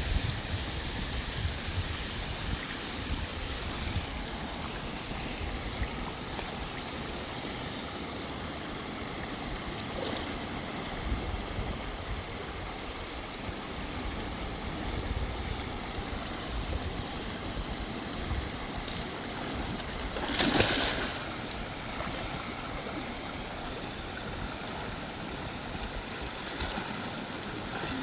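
Steady rushing of a flowing river, with one short, louder burst of noise about twenty seconds in.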